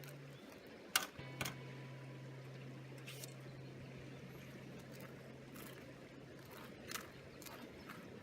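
A few sharp clicks and knocks, the loudest about a second in, over a faint steady low hum.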